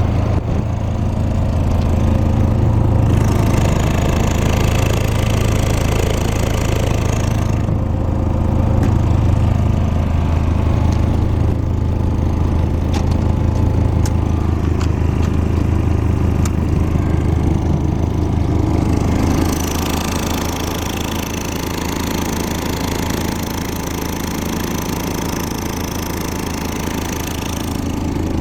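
Seiwa Sangyo SCPE-22GLS soundproofed engine-driven air compressor running, its engine a steady low drone. About two-thirds of the way through the sound eases slightly and its tone changes.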